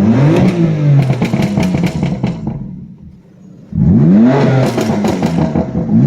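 2017 BMW M4's twin-turbo straight-six on a stage 2 tune, revved twice with a quick rise and fall in pitch each time; a third rev begins at the very end. A run of crackles and pops from the exhaust follows each rev as it falls: the tune's pops-and-bangs.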